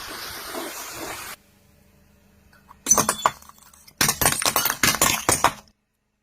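Brittle objects cracking and shattering under a car's tyre, with a glassy, clinking crunch: a short burst about three seconds in, then a longer run of rapid cracks lasting about a second and a half that stops abruptly. Before that, a hissing noise cuts off a little over a second in.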